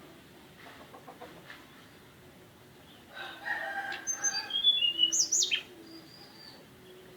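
Birdsong: about three seconds in, a clucking, fowl-like call rises, overlapped by a short run of high whistled notes that end in quick up-and-down sweeps, then it falls quiet.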